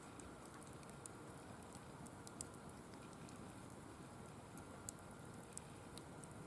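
Firewood burning in a wire-mesh fire pit, giving a faint steady hiss with scattered, irregular sharp crackles and pops.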